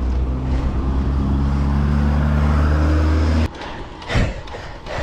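A motor vehicle's engine runs close by with a low, steady hum that slowly rises in pitch, then cuts off abruptly about three and a half seconds in. Duller rushing noise follows, with a sharp knock just after.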